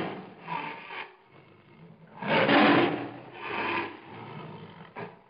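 Tiger feeding on raw meat, making rasping, noisy chewing sounds in several irregular bursts, the loudest a little over two seconds in.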